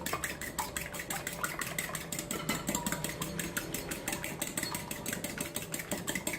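Two eggs and milk being beaten by hand in a bowl: a fast, even run of clicks as the utensil strikes the bowl several times a second.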